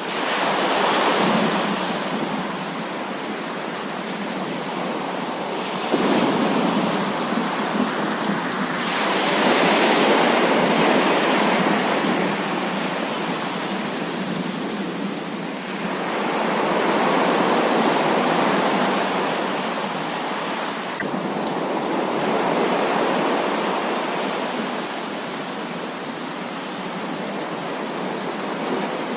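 Heavy rain falling steadily, with long rolls of thunder swelling and fading several times.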